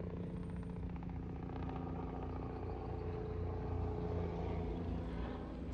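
Steady low drone of motor-vehicle engines, with a few level tones held throughout.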